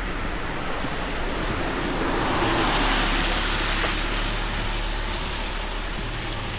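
A car passing by: a steady rushing noise that swells to its loudest about three seconds in and then fades.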